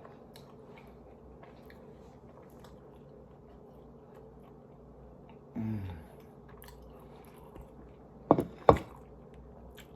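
Close-miked chewing of food, with faint wet mouth clicks. A short hummed sound comes a little past the middle, and two brief loud voice-like sounds come near the end.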